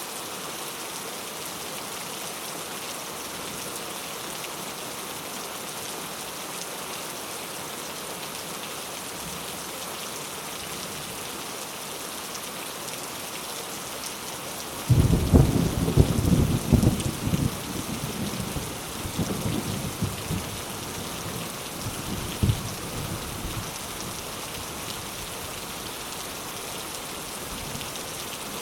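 Steady heavy rain falling, with a loud clap of thunder about halfway through that rumbles low for several seconds, peaking a few times before fading back into the rain.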